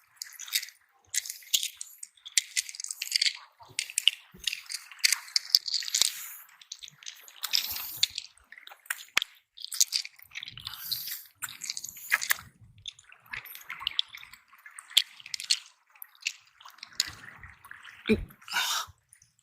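Rock snail shells clicking and scraping against wet rock and each other in quick, irregular bursts as they are pulled off and gathered by hand, with water dripping and splashing.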